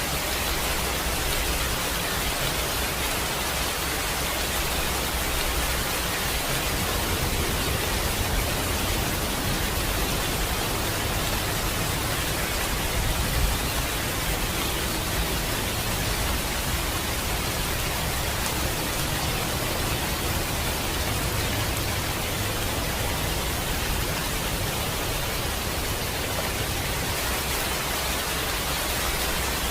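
Steady rain, an even hiss with a low rumble underneath that holds throughout.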